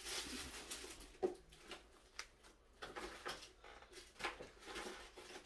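Faint eating sounds: a person biting and chewing a large steamed dumpling (wang-mandu), with scattered small clicks and mouth smacks.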